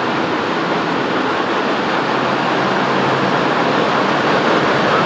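Factory machinery running steadily: a loud, even mechanical noise with a low hum underneath.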